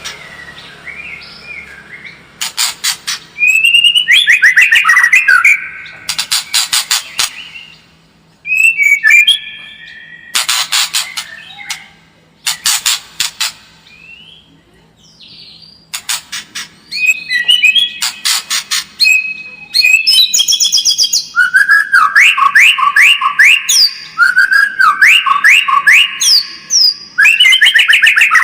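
White-rumped shama singing loudly: bursts of rapid, dry clicking notes alternate with clear whistles and fast warbled phrases, broken by a few short pauses.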